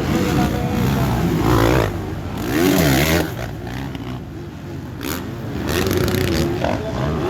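Motocross motorcycle engines revving up and down as bikes race on the track, loudest about one and a half and three seconds in.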